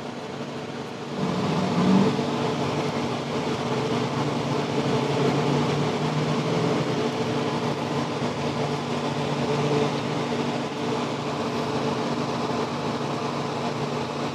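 A steady motor hum with a rushing noise, stepping up in level about a second in and then holding.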